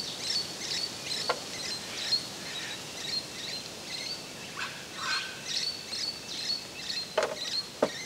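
Small birds chirping: many short, high notes repeating throughout. A couple of sharp clicks near the end.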